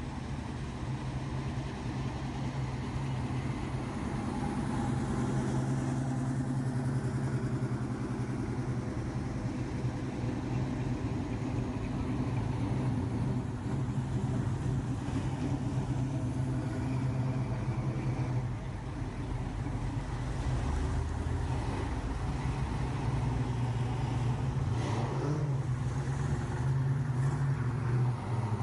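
Car engine running steadily at low revs, with a low hum and a brief drop in level about two-thirds of the way through.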